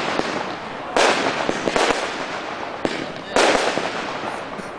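Fireworks going off: a burst about a second in and another just past three seconds, each opening suddenly into a long crackling shower that fades out, with no big bangs.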